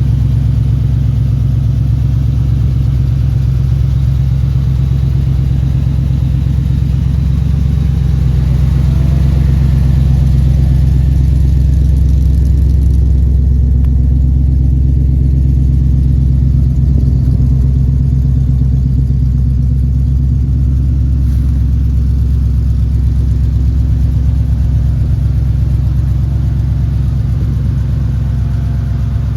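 Small-block Chevrolet V8 in a 1947 Studebaker M15 hot-rod pickup, running steadily and loudly with a deep, even firing pulse, swelling slightly about a third of the way in.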